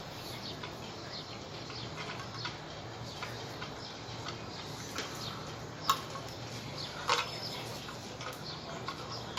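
Scattered light clicks and taps over a low steady hum, with two sharper clicks about six and seven seconds in.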